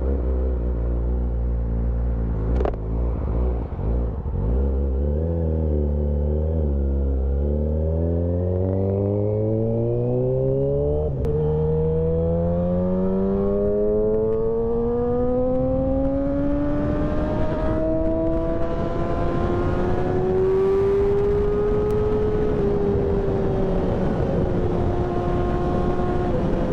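Yamaha R6 600cc inline-four engine with a de-catted stainless exhaust and SC Project muffler, pulling hard. The exhaust note climbs steadily in pitch for about fifteen seconds, then eases slightly and holds at a high steady cruise.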